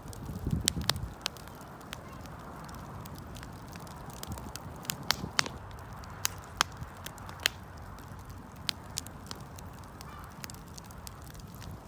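Wood fire burning, with sharp irregular pops and crackles over a steady hiss of flame. There is a brief low rumble about half a second in.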